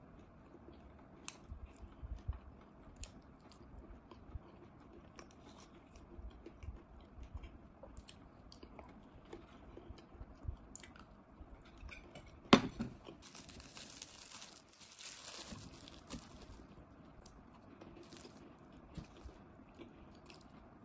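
Close-up chewing and mouth sounds of someone eating sweets, with small clicks throughout. A sharp clink about twelve seconds in, most likely the steel spoon against the steel bowl, is the loudest sound, followed by a few seconds of rustling.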